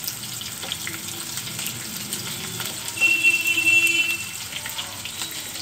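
Sliced onions, green chillies and tempering seeds sizzling and crackling in hot oil in a nonstick kadai, stirred with a wooden spatula. About three seconds in, a high steady tone sounds for about a second and is the loudest part.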